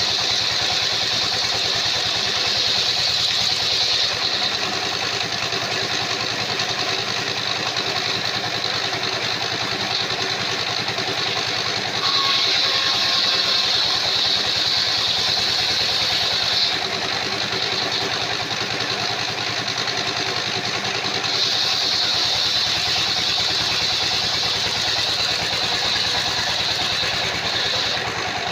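Sawmill's engine-driven circular saw running steadily, with a high-pitched sawing sound coming in three stretches of about four seconds each as the blade works through the timber.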